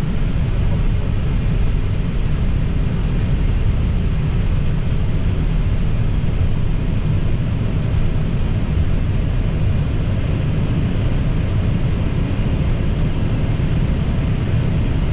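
Steady low rumble and hiss in an Airbus A320 cockpit while the airliner taxis in after landing.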